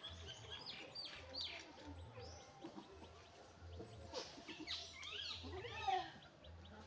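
Faint bird chirps: a scatter of short, quick chirps in the first couple of seconds, and more warbling calls from about four to six seconds in.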